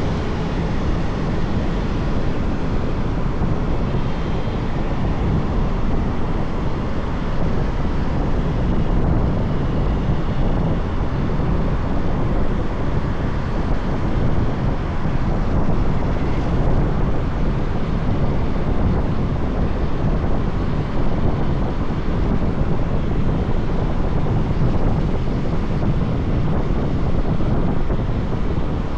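Motorbike ride heard from the rider's position: steady wind rush over the microphone mixed with the bike's engine and road noise, unchanging throughout.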